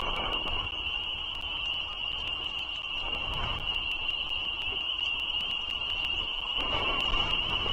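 A steady, unbroken, high-pitched chorus of calling frogs, over a low background rumble.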